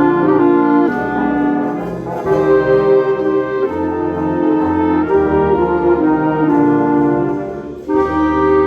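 Concert wind band playing, brass to the fore, in sustained chords that change every second or so. Near the end the sound briefly dips and the band comes back in together.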